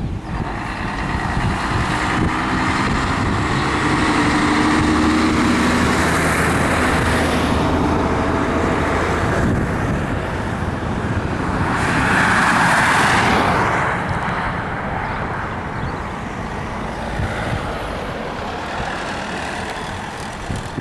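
Jet engines of an Airbus A319 airliner at takeoff power, a loud sustained rushing noise with a droning tone in the first few seconds. It swells about four to seven seconds in, peaks again around twelve to thirteen seconds in, then fades.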